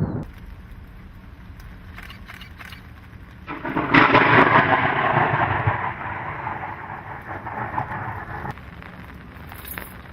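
Thunderstorm: light rain with a few crackles, then a loud thunderclap about four seconds in that rumbles and fades for several seconds before cutting off abruptly.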